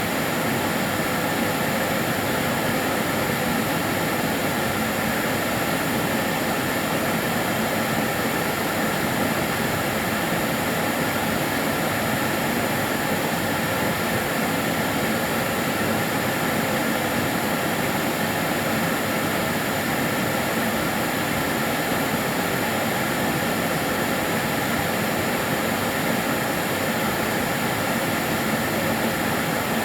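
Karcher DS 6 Premium water-filter vacuum cleaner running steadily, a smooth, even whooshing hum with a faint steady whine and no change in pitch or level.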